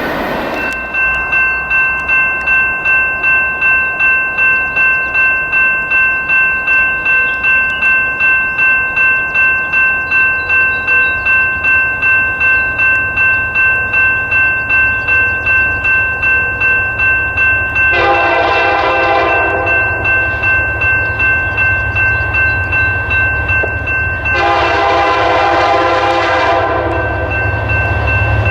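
Railroad grade crossing bell ringing in quick, even strokes, about two a second. A diesel locomotive approaches with a low rumble that grows, and its air horn sounds a short blast about two-thirds of the way in and a longer one near the end, as a train does when nearing a crossing.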